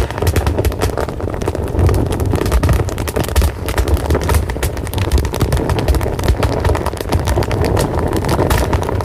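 Crackling fire: a steady low rumble of burning with frequent sharp crackles and pops.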